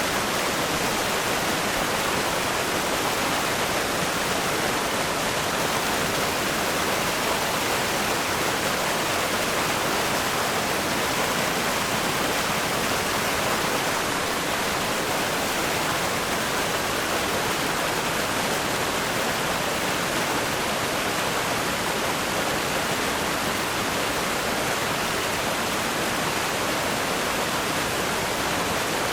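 River rapids rushing over rocks: a dense, steady roar of white water that never lets up.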